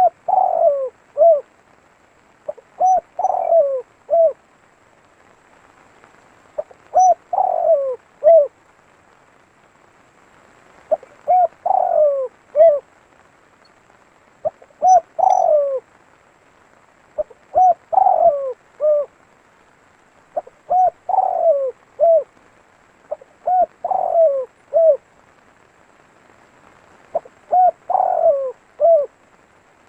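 Spotted dove (tekukur) cooing its song over and over. Each phrase is a few short coos with a longer, downward-sliding note, repeated about every three to four seconds.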